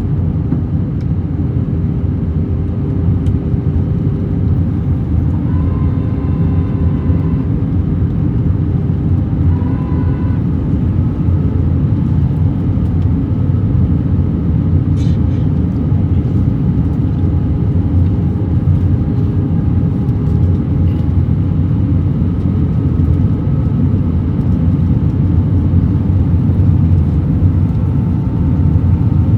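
Steady, loud cabin rumble inside an Airbus A321-200 airliner, with faint steady whining tones that come and go over it.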